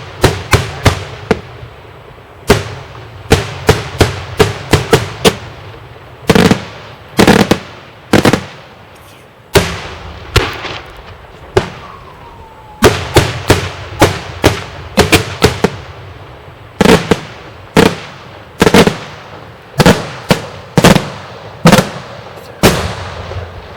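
Daytime festival fireworks: aerial shells bursting in a rapid, irregular series of loud bangs, many in quick clusters of two or three, each trailing a short echo. A faint falling whistle is heard about halfway through.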